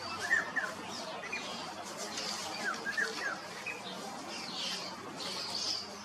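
Birds chirping: short, scattered chirps over a steady background hiss.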